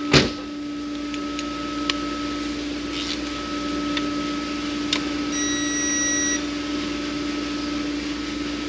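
Steady low shop hum with a few light clicks of a wrench on a bolt. Then, about five and a half seconds in, a high electronic beep lasting about a second, from a digital torque wrench reaching its set torque on the bolt.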